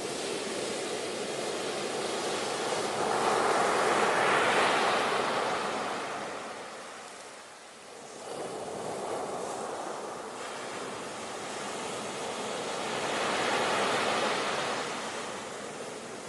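Ocean surf: a steady wash of waves that swells about four seconds in, eases to a lull halfway through, and swells again near the end.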